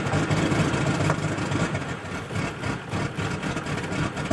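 Cummins 5.9-litre 12-valve inline-six diesel with a Bosch P7100 injection pump, running unevenly just after a cold start at 17°F, after a month parked; the owner calls it not very happy.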